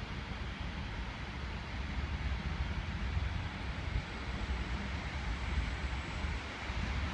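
Steady low rumble of a train at a railway station, growing slightly louder.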